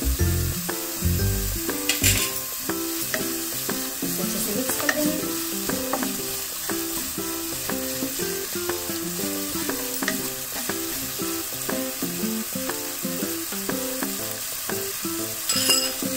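Chopped vegetables stir-frying in hot oil in a nonstick wok: a steady sizzle as they are stirred and turned with a wooden spatula, with scattered light taps of the spatula against the pan.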